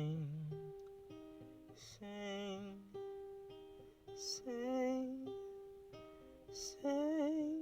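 Acoustic guitar playing held chords under wordless sung vocal phrases, each voice line about a second long with a wavering, sliding pitch, coming in four times about two seconds apart.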